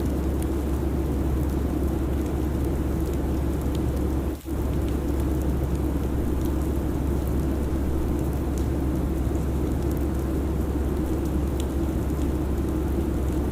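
Steady airliner cabin drone at cruise: a deep hum under a broad rushing noise, with faint scattered crackles. The level dips briefly about four and a half seconds in.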